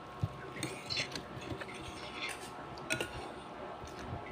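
A few light clicks and taps of cutlery against a plate during eating, over a steady low background hum.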